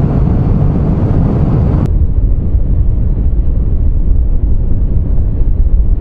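Triumph Street Triple 660 three-cylinder motorcycle engine running steadily at road speed, under a heavy, even rumble of wind on the helmet microphone.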